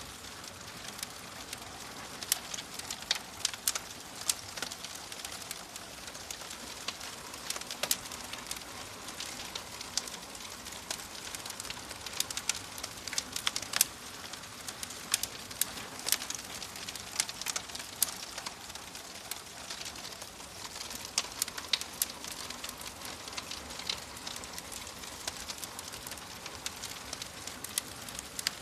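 Wood fire in a fireplace crackling, with frequent sharp pops over a steady hiss.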